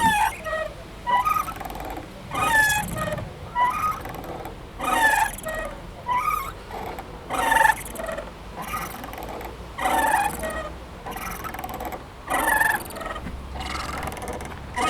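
Playground swing squeaking as it swings back and forth: a loud gliding squeak about every two and a half seconds, with a softer squeak in between, in a steady rhythm.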